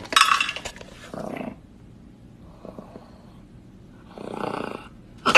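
A dog making rough, breathy huffing sounds in three short bursts, the first the loudest.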